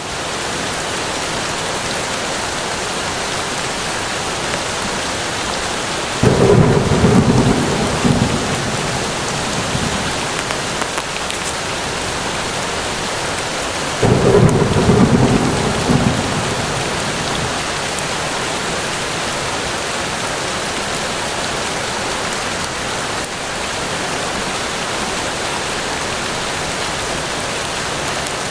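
Steady rain falling on foliage, with two sudden claps of thunder about six and fourteen seconds in, each rumbling and fading over a few seconds.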